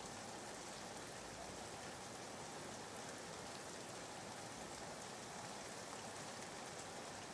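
Soft, steady rain ambience: an even hiss of rainfall with faint scattered drop ticks, laid in as a background white-noise track.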